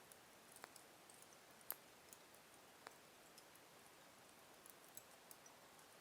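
Log fire in a fireplace crackling faintly: scattered sharp snaps and pops at irregular intervals, the loudest just under two seconds in.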